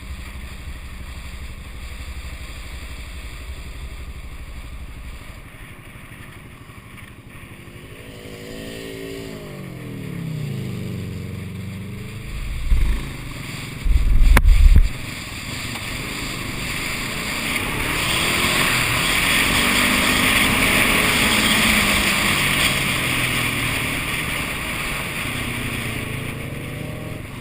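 Twin-turbo Subaru wagon driving by. Its engine note sweeps downward about eight seconds in, two low thumps follow, and then engine and tyre noise swell to a peak and fade away.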